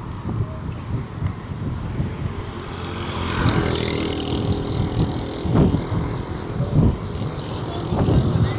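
A motor vehicle passing close by, its engine and tyre noise swelling about three seconds in and peaking a second later, over a steady low traffic rumble with a few low thumps.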